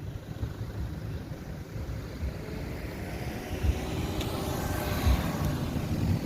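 A motor vehicle approaching and growing louder over the last few seconds, with its engine pitch faintly rising. Underneath is a low wind rumble on the microphone and an occasional dull thud.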